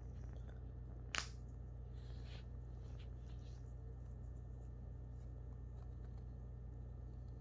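One sharp click a little over a second in, followed by a few faint scratching sounds, over a steady low hum.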